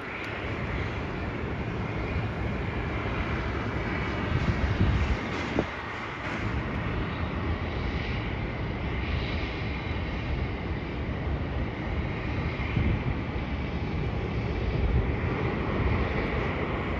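Jet airliner engines running: a steady broad rush of noise that swells briefly about four to five seconds in.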